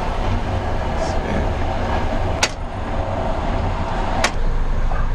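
Steady low rumble inside a passenger train's sleeper carriage, with two sharp clicks about two seconds apart.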